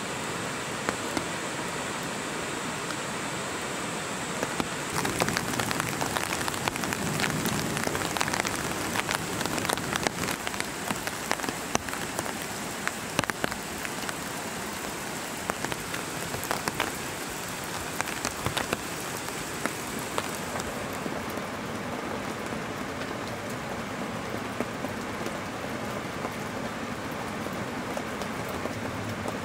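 Steady rain falling, with a dense stretch of sharp drop impacts ticking in the middle.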